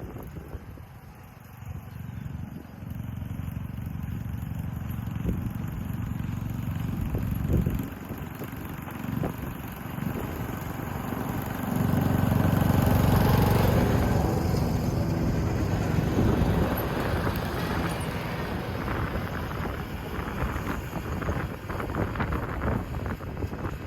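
John Deere S100 riding lawn mower running with its deck engaged. The engine rumbles steadily and grows louder about halfway through.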